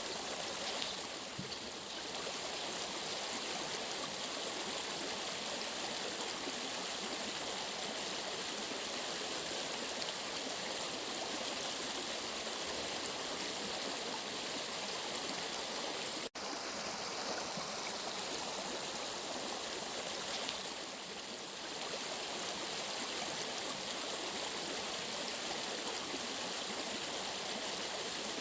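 Steady rushing of a flowing stream, with a momentary cut-out about halfway through.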